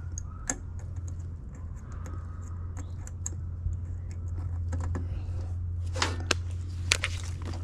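Scattered small clicks and taps of hand tools and meter leads being handled at an AC condenser, with a few louder clicks near the end, over a steady low hum.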